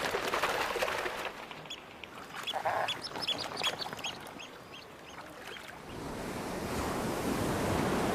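Common eider ducklings peeping: a quick run of short, high calls, with a lower call among them, then water noise swelling from about six seconds in.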